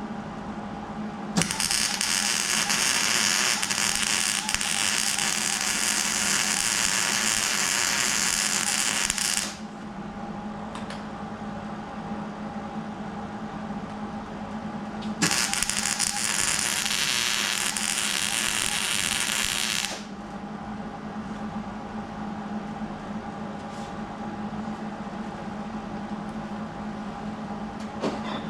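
Plasma cutter cutting steel: two long bursts of harsh hiss, the first about eight seconds and the second about five, each starting suddenly and cutting off sharply, over a steady machine hum.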